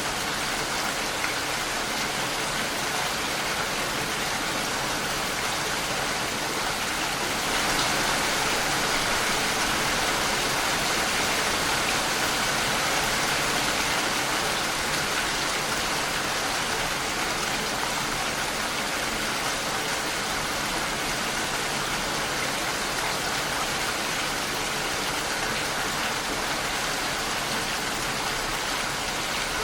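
Steady rainfall, an even hiss of drops on a surface, swelling slightly louder about a quarter of the way in.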